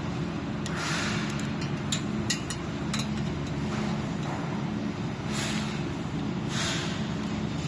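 Light metallic clicks and clinks of a wrench on an e-bike's disc brake caliper mounting bolts as they are tightened, a cluster of them about one to three seconds in. Underneath runs a steady low hum, and a few soft swishes come and go.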